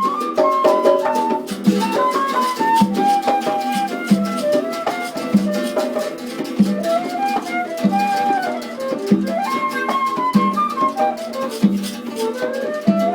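Instrumental music played by a small group: a gliding melody line over a steady low drum beat about every second and a quarter, with sharp percussive clicks between.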